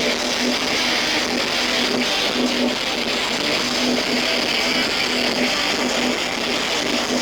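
Live rock music, a band with electric guitar playing a riff that repeats a short low note in a steady pulse, recorded with a lot of hiss.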